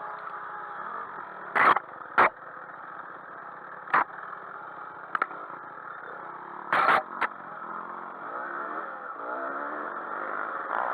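Off-road motorcycle engines running, broken by several short, loud bursts. In the last few seconds the engine revs, its pitch rising and falling.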